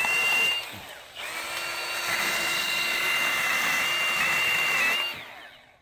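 Battery-powered Milwaukee M18 Hatchet mini chainsaw running at full speed as it cuts branches: a steady high electric whine that stops briefly near the start, runs again for about four seconds, then winds down.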